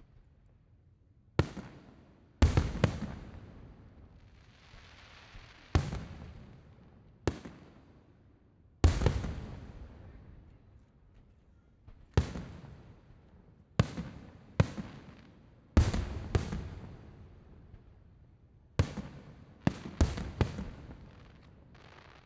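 Aerial fireworks shells bursting in an irregular series of about fifteen sharp booms, some close together in pairs, each fading out in a rolling echo.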